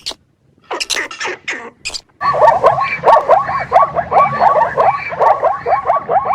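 Animal calls: a few short, harsh calls, then from about two seconds in a fast run of short repeated calls, several a second.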